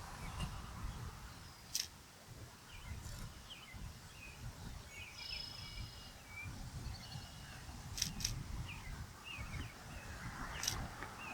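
Outdoor ambience: a low wind rumble with scattered short, faint bird chirps and a few sharp clicks, two of them close together about eight seconds in.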